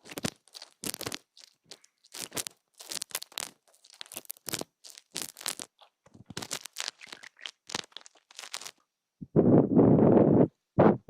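Ear-cleaning ASMR: short scratchy strokes of ear-cleaning tools, about two a second, then a louder rubbing rush a little after nine seconds in that lasts about a second.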